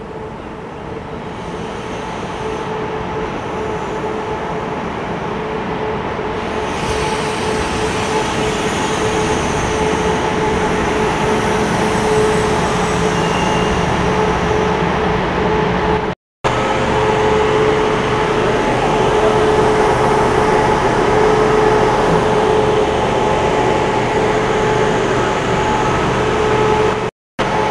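Passenger train drawing in along a station platform: its running noise grows steadily louder over the first dozen seconds, then holds, with a steady hum. The sound drops out for a moment twice.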